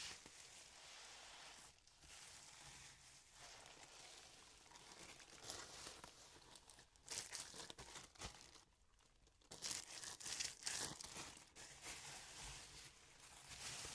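Packaging being handled close up: soft crinkling and tearing in irregular bursts, with a brief pause about two thirds of the way through.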